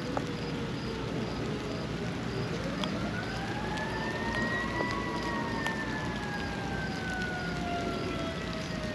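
Emergency-vehicle siren sounding a slow wail: one long rise in pitch over about two seconds from a little past the start, then a slow fall. It carries over steady rain hiss with a few sharp drip clicks.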